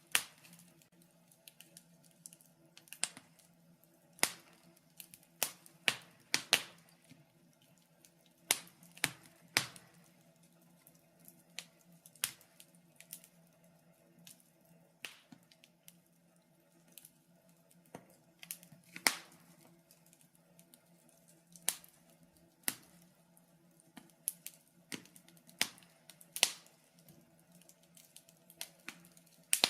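Wood fire in a fireplace crackling, with irregular sharp pops and snaps, a few of them much louder than the rest, over a faint steady low hum.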